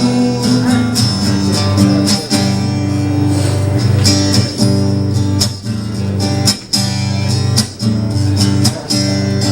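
Live strummed acoustic guitar with a steady beat over a sustained bass line, an instrumental break between sung verses.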